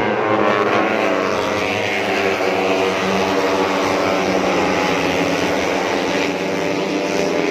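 Several 150cc four-stroke underbone racing motorcycles running hard at high revs together, their engine notes overlapping and sliding up and down in pitch as they pass.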